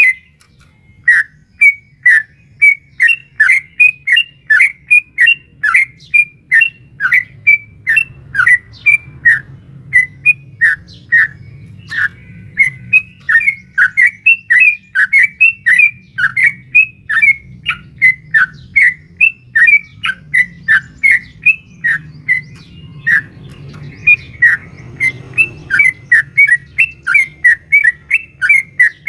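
Yellow-vented bulbul (trucukan) singing a long, fast run of short, sharp falling notes, about two or three a second, with a brief pause just after the start. A faint low hum runs underneath.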